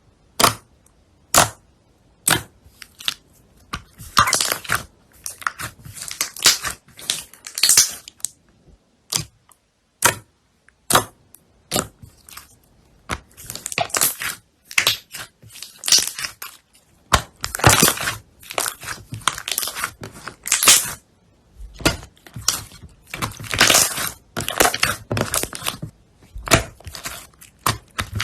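Slime being squeezed and pressed by hand, giving a run of sharp crackling, crunching pops in quick irregular bursts, with short pauses between squeezes.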